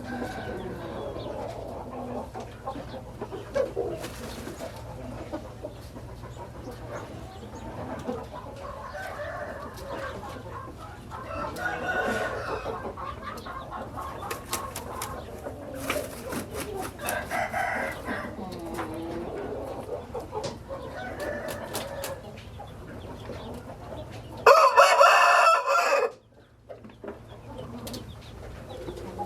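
Chickens clucking and roosters crowing at intervals, with one loud crow lasting about a second and a half near the end that cuts off suddenly.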